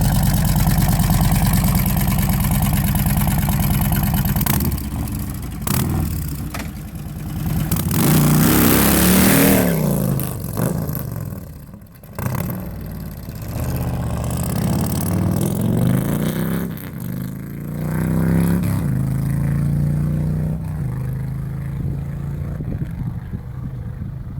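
Harley-Davidson Milwaukee-Eight V-twin through a Samson crossunder full exhaust with 33-inch Cholo mufflers, running steadily and then revving and pulling away, its pitch rising and falling several times as it accelerates through the gears.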